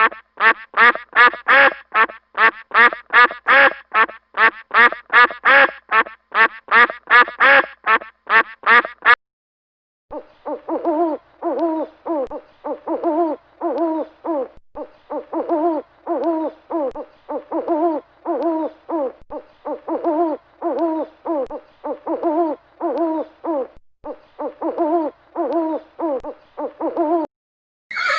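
Duck quacking in a fast run of calls for about nine seconds, then stopping. After a short pause, a different animal call follows: a short pitched call repeated about twice a second, lower than the quacks, which stops just before the end.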